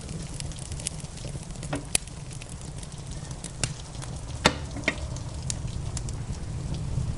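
Wood fire crackling in a fireplace: irregular sharp pops, the loudest about four and a half seconds in, over a steady low rumble.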